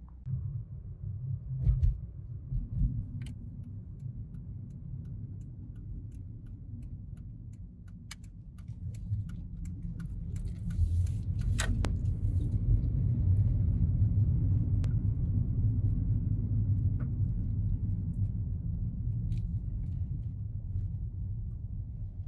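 A Nissan Skyline being driven: low engine and road rumble that builds louder about ten seconds in, with a few knocks and clicks in the first three seconds.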